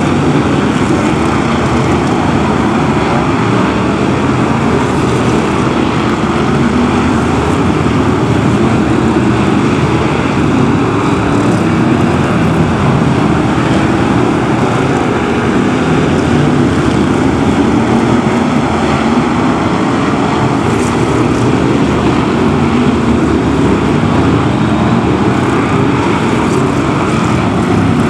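A pack of BriSCA F1 stock cars racing, their V8 engines running hard together in a loud, continuous, unbroken wall of engine noise.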